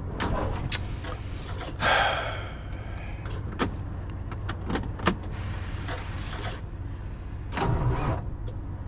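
Scattered sharp clicks and knocks of handling in a truck cab over a steady low hum, with a short rasping burst about two seconds in.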